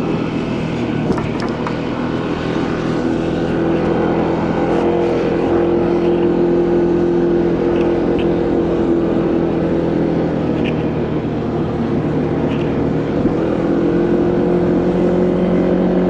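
Motorcycle engine running at a steady cruising speed, its note dipping slightly and rising again a couple of times, over wind and road noise.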